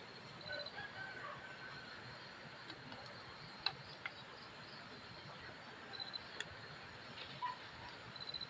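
Insects chirping faintly, with short high trills repeating every couple of seconds over a steady hiss. A few sharp clicks, the loudest about three and a half seconds in.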